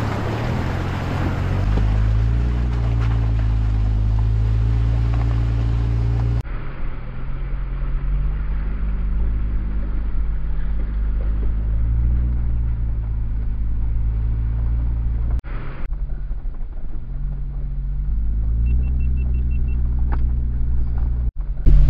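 A Jeep's engine running at low, fairly steady revs as it drives slowly along a dirt mountain trail, giving a steady low rumble whose pitch rises and falls a little. The sound changes abruptly twice, about six and fifteen seconds in.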